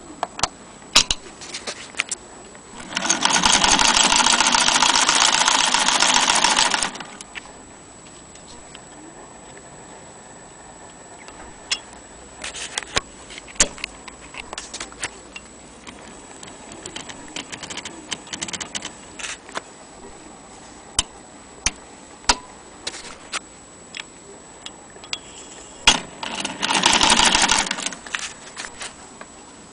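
Antique Jones sewing machine running in two spells, about four seconds near the start and about a second and a half near the end, with scattered clicks and knocks from the mechanism being handled in between.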